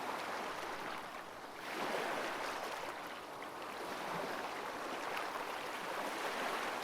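Ocean waves washing in a steady rush of surf, easing off briefly and swelling again a little under two seconds in.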